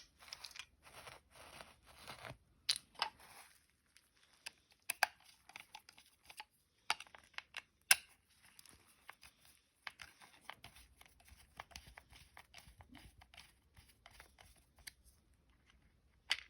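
Hands handling small toy parts and material: short rustling scrapes, then scattered sharp clicks and light irregular ticks.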